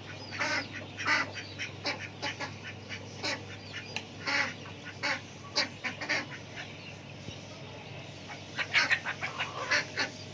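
Ducks quacking: many short, sharp calls in irregular bunches, busiest near the end.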